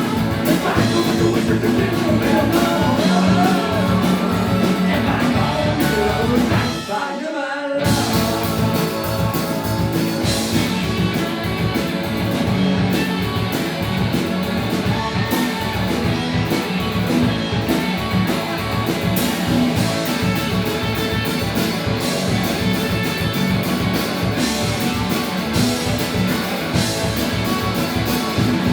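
A live rock band playing, with a singer's voice over guitars and drums in the first part. The band stops for a moment about seven seconds in, then comes back in.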